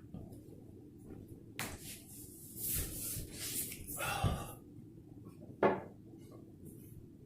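Scattered light knocks and scraping of hand work on hardwood flooring: a sharp knock about one and a half seconds in, two scraping stretches in the middle, and a louder knock near the end, over a low steady hum.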